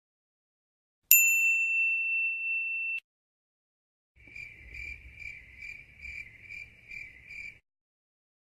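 Two sound-effect clips. A single bright ding about a second in rings evenly for about two seconds and is cut off. After a short gap comes a steady run of about eight even chirps, a little over two a second.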